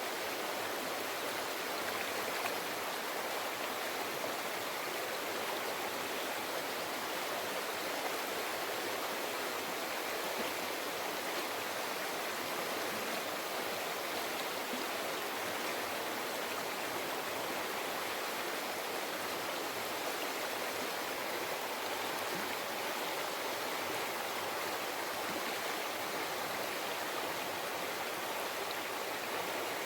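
Shallow river flowing over rocks: a steady, even babbling and rushing of water.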